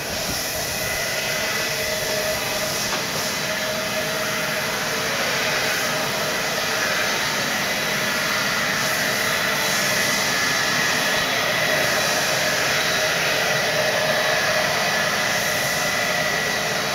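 Airbus A318's Pratt & Whitney PW6000 turbofan engines running: a steady rush of jet noise with a high, even whine laid over it.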